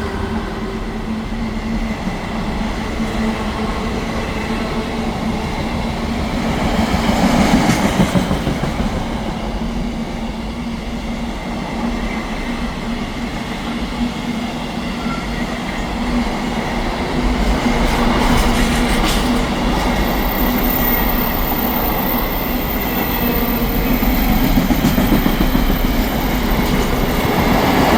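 A freight train passes close by: a continuous rumble of steel wheels on the rails with clickety-clack over the rail joints. The noise swells and eases several times as the wagons go by.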